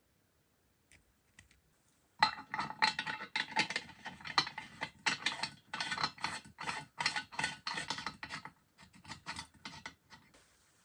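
Rapid metallic scraping and clinking, as of small metal stove parts being worked and handled with tools, starting about two seconds in and thinning out near the end.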